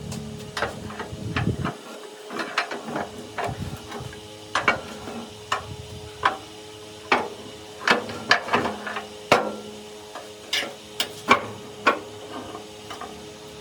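A hammer striking metal parts in an irregular series of sharp knocks, about one or two a second and some louder than others. A faint steady hum runs underneath.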